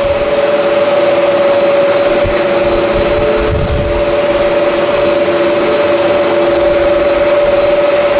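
Jet airliner engines running, a loud, steady whine held on two pitches over a broad roar, with low gusty rumbles from wind buffeting the microphone.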